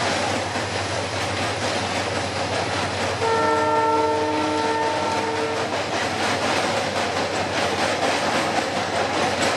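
Diesel train running with a steady rumble and wheel clatter. About three seconds in, the locomotive's multi-tone horn sounds once for about two seconds.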